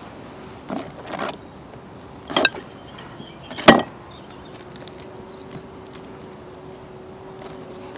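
A few short, sharp knocks and clinks, the loudest about three and a half seconds in, followed by a faint steady buzz.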